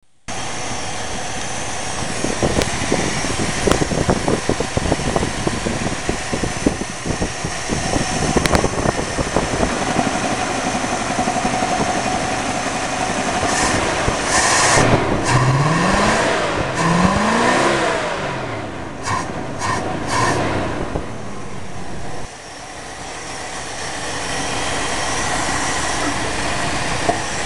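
1974 Plymouth Satellite's engine running with the hood open, revved twice about halfway through, its pitch climbing and falling back each time before settling to a steady run.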